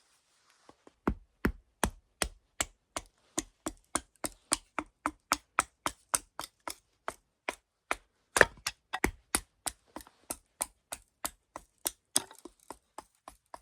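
Small axe chopping dry wood into small kindling pieces: a quick, steady run of sharp chops, about three a second, starting about a second in, with one harder strike near the middle.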